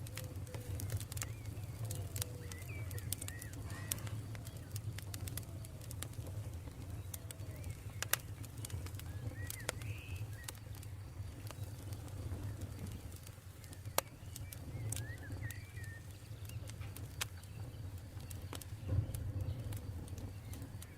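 Campfire crackling, with scattered sharp pops over a low steady rumble; the loudest pops come about 8 and 14 seconds in. Birds call now and then in the background.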